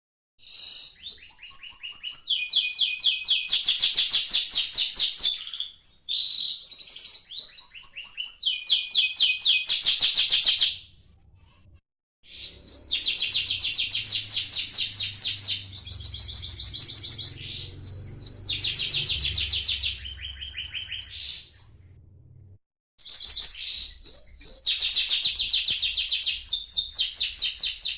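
Young domestic canary singing long bouts of rapid, high trills and chirps, falling briefly silent twice.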